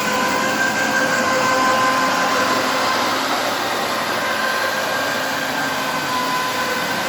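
FactoryCat GTR ride-on floor scrubber running with its vacuum suction on: a steady rushing hiss with a constant motor whine, as it picks up the water from the scrubbed floor.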